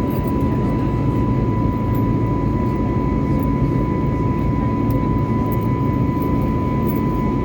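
Steady in-flight cabin noise of an Airbus A320neo with CFM LEAP-1A engines, heard inside the cabin: a deep, even rumble of airflow and engines, with a thin steady high tone on top.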